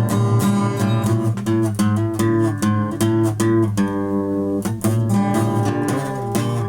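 Guitar music: chords strummed in quick, repeated strokes over a steady low bass note.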